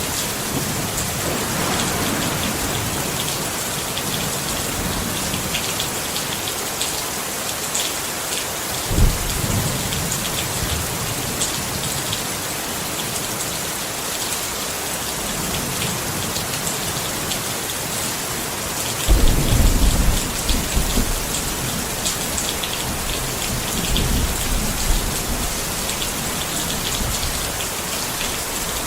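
Steady rain pattering on a tent, with low rolls of thunder: a short one about nine seconds in and a longer, louder one about twenty seconds in.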